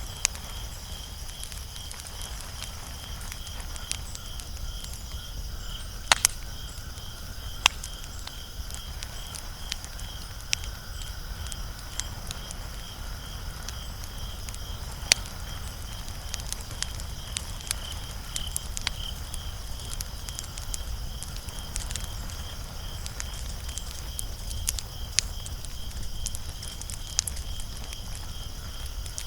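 Wood fire burning with irregular crackles and sharp pops, a few louder snaps about six, seven and a half and fifteen seconds in. A steady high pulsing tone runs underneath.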